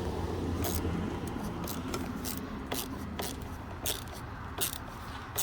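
Hand ratchet wrench clicking in short strokes, a quick rasping burst about every half second to second, as the 300ZX's battery hold-down is tightened.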